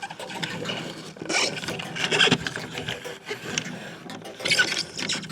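Rubbing and scraping with small clicks, in uneven strokes; the loudest scrapes come about a second and a half in and again near the end.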